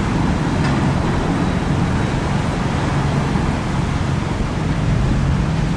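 Fire engine's engine running steadily, with road and traffic noise.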